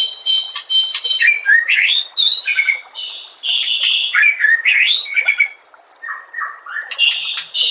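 White-rumped shama (murai batu) singing a fast, varied song. Sharp clicking notes mix with whistled and slurred phrases, with a brief pause a little past the middle.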